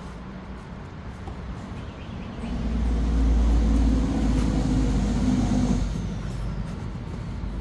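A motor vehicle passing nearby: a low engine rumble swells about two and a half seconds in, holds for a few seconds and fades.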